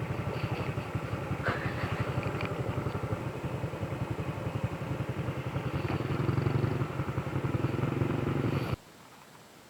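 Motorcycle engine running on the move, getting a little louder about two-thirds of the way in, then cutting off abruptly near the end.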